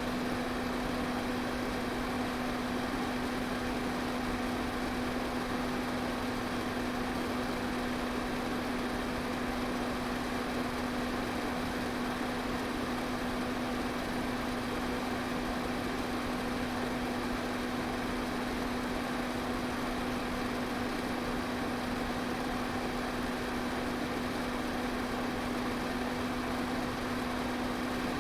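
Electric fan running at a constant speed: a steady rush of air with an unchanging motor hum.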